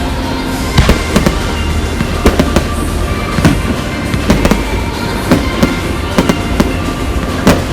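Fireworks going off in an irregular string of sharp bangs, about two a second, over a steady low rumble.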